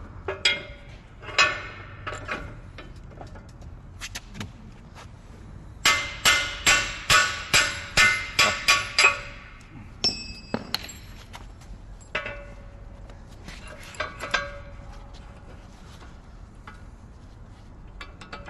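Hammer striking steel at a mini excavator's arm linkage, ringing metallic blows: a couple of single strikes, then a run of about nine quick blows at roughly three a second, starting about six seconds in, and a few more single strikes later.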